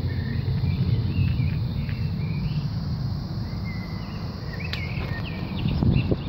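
Small birds chirping in short, scattered calls, busiest about four to five seconds in, over a loud, steady low rumble.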